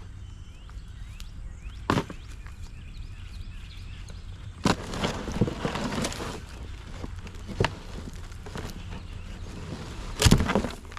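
Demolition of a wooden houseboat structure: a sharp knock about two seconds in, a stretch of clattering and breaking in the middle, another knock, and the loudest crash near the end.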